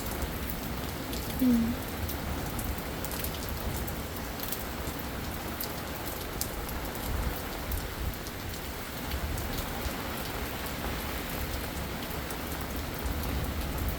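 Steady rain falling hard, with scattered sharp ticks of single drops hitting nearby.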